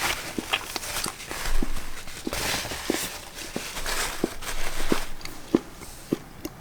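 A person eating close to the microphone: chewing with many irregular mouth clicks and smacks.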